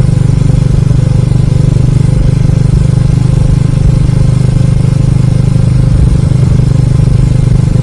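Motorcycle engine running steadily at cruising speed with a fast, even pulse, under a haze of wind noise from riding.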